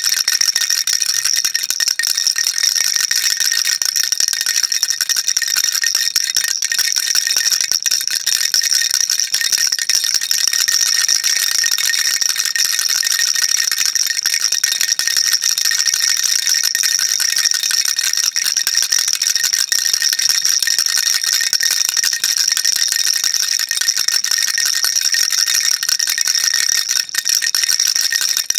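Baby rattle shaken continuously, a dense, unbroken patter of small beads clicking inside a hollow toy body, high-pitched and steady throughout.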